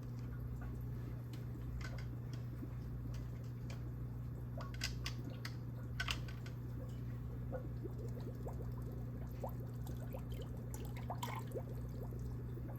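Aquarium water circulation: a steady low pump hum with water trickling and dripping, and scattered small ticks, a few louder ones about five, six and eleven seconds in.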